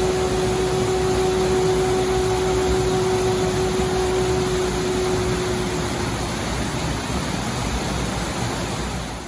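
Waterfall roar, a steady rush of heavy falling water. A single held musical note sounds over it and fades out about six seconds in, and the roar fades down at the very end.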